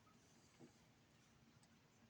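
Near silence: room tone, with one faint soft tap a little over half a second in.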